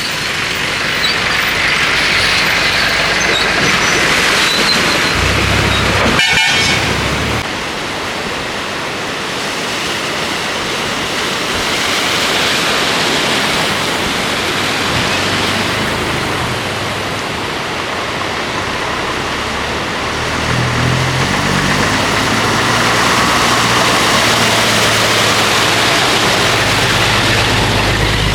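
Road vehicles driving through flood water: engines running under a steady rushing noise of water and traffic, with a heavier engine drone in the second half and a brief horn-like buzz about six seconds in.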